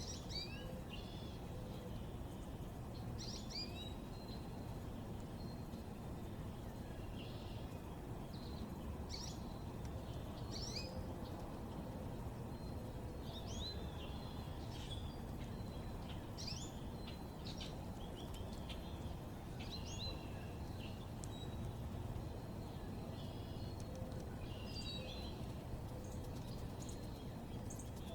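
Small birds chirping in short, quick phrases on and off throughout, over a steady low rumble of background noise.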